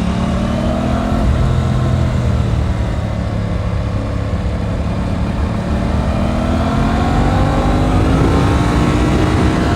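Aprilia RS 660 parallel-twin motorcycle engine under way. It eases off, its pitch falling for about four seconds, then climbs steadily through the revs as the bike accelerates, with a low wind rumble underneath.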